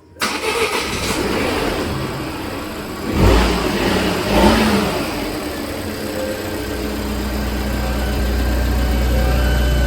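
Volvo XC60 engine starting, surging briefly in revs about three seconds in, then settling into a steady idle. The start shows that the donor engine control unit, now paired to the car, is accepted.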